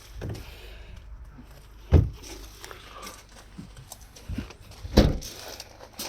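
Two dull, heavy thumps about three seconds apart, with lighter knocks and rustling between them.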